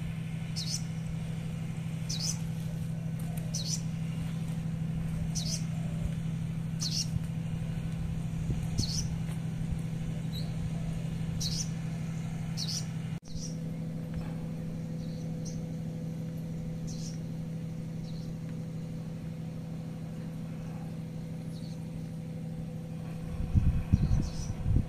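A bird's short high chirp, repeated about every second and a half over a steady low hum. After about 13 seconds the chirps grow fainter and a steady higher tone joins the hum. Near the end come a few loud low thumps.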